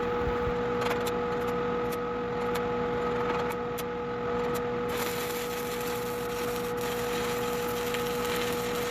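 Shielded metal arc (stick) welding: a steady crackling, hissing arc over a constant electrical hum, with a few sharp clicks in the first few seconds.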